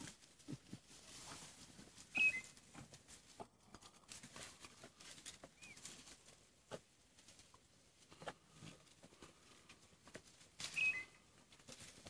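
A bird gives the same short, high, two-part chirp twice, about two seconds in and again near the end, with another brief high note around the middle. Faint scattered clicks and rustles in between.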